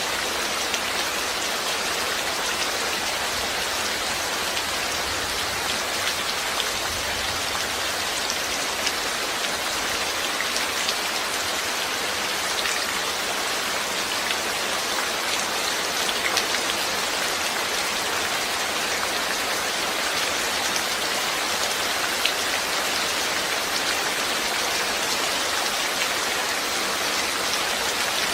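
Steady rain falling, a continuous even hiss with many small drop ticks on a surface.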